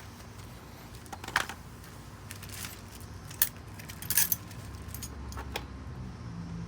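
Scattered sharp metallic clinks and jingles of small metal hardware and hand tools being handled, with a quick cluster of clinks about four seconds in.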